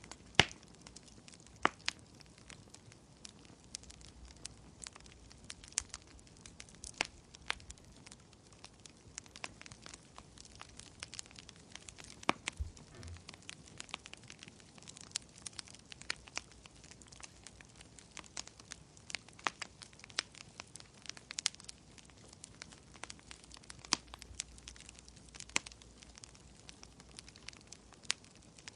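Wood fire crackling, with irregular sharp pops over a faint hiss. The loudest pop comes right at the start.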